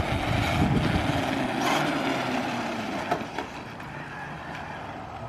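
Electric RC truck driving, its motor whine slowly falling in pitch over rough running noise, with a couple of short knocks.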